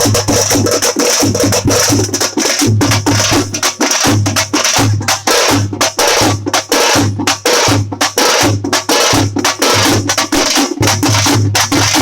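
Tamate frame drums played in a fast, dense rhythm of sharp strikes over a deep beat that recurs about twice a second.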